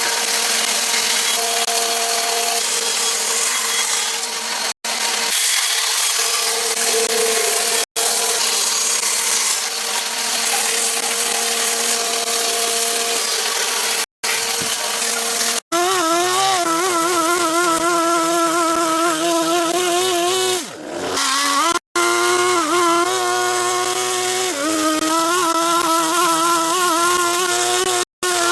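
Power tools cutting wood, in a string of short clips with abrupt cuts. First a steady rushing noise, then from about halfway a buzzing motor whose pitch wavers up and down as the blade is loaded.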